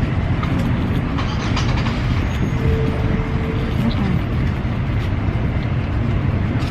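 Steady low rumble of engines and street traffic, with a short steady tone about two and a half seconds in.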